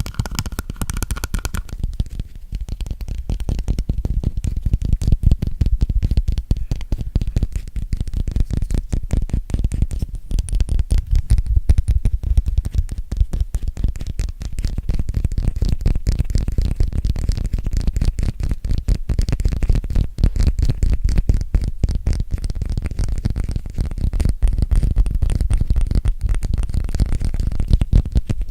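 Fast, continuous finger tapping close to a microphone: many rapid, dull, low taps in a dense stream. A brighter tapping sound stops about two seconds in.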